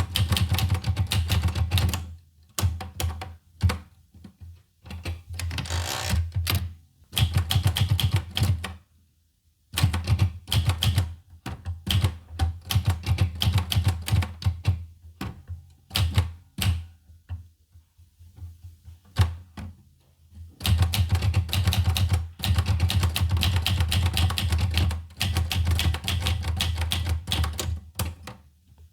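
Olivetti Lettera 25 typewriter being typed on: fast runs of key strikes broken by short pauses, with a longer pause of a few seconds past the middle before the typing picks up again.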